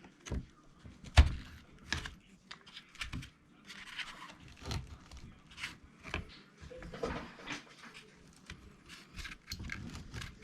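Irregular small clicks, taps and clatter of RC truck drivetrain parts being handled and fitted together by hand, with one sharper knock about a second in.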